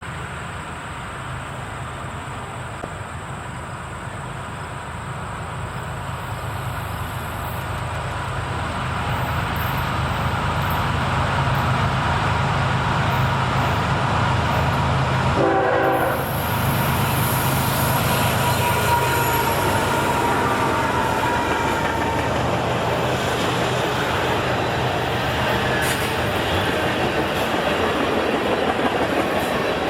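CN freight train passing from just beneath the track: the diesel locomotives' low engine hum grows louder over the first ten seconds, and then, after a brief dip, the cars keep rolling past with a steady wheel-on-rail rumble.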